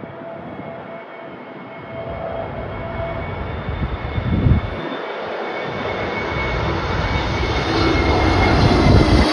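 Jet airliner's engines whining as it approaches, growing steadily louder, over a rough rumble of strong wind gusting on the microphone.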